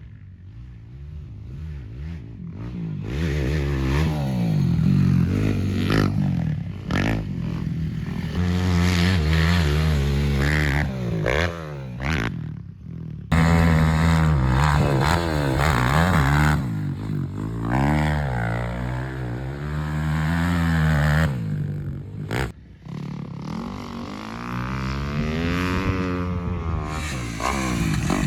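Motocross quad (ATV) engines revving hard on a dirt track, the pitch repeatedly climbing and falling as the riders accelerate, shift and back off. The sound grows louder over the first few seconds and jumps suddenly about halfway through.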